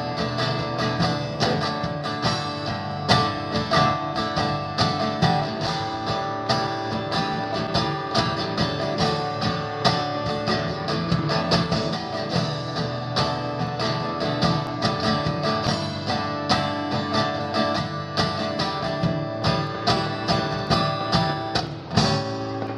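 Guitar strummed in a steady rhythm, playing an instrumental passage of live music without singing. Near the end the strumming thins out and a held low note remains.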